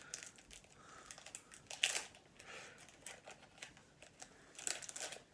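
Hockey card packs being handled and opened: irregular crinkling of the wrapper and light clicks of cards against each other, loudest about two seconds in and again near the end.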